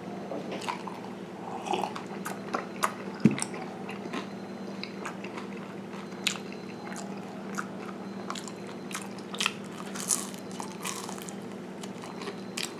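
Close-up chewing and crunching of a rice cracker topped with spicy pork floss: irregular crisp crunches and bites throughout, with one louder knock about three seconds in, over a steady low hum.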